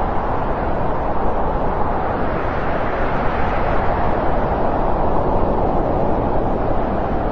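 Steady rushing noise from a natural ambience sound effect, even throughout with no distinct events.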